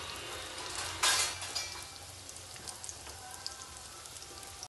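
Martabak har, spring-roll wrappers folded around duck eggs, sizzling gently in a little oil in a nonstick frying pan, with scattered small crackles and one louder burst of spitting about a second in.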